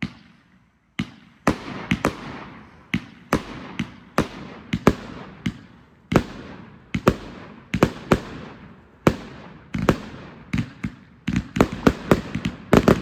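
A 205-shot consumer fireworks cake firing a string of sharp bangs, about one to two a second, each trailing off in a rumbling echo. The shots come faster near the end.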